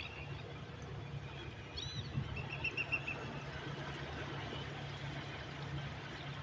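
Steady sea surf noise with a bird calling over it: a couple of arching chirps about two seconds in, then a quick run of about six short high notes.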